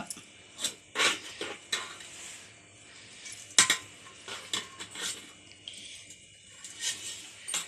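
Utensils clinking and knocking against a dish in irregular taps, as a spoon works the ragi semiya in its vessel. The loudest knock comes about three and a half seconds in.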